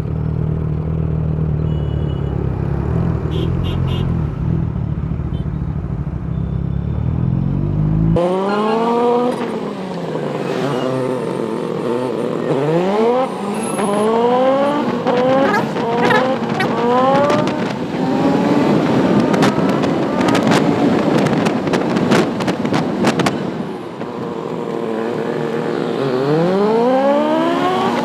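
Sport motorcycle engine revving hard and accelerating through the gears, its pitch climbing and dropping back at each shift, again and again. For about the first eight seconds there is only a low, steady rumble of engine and wind, which changes abruptly to the revving.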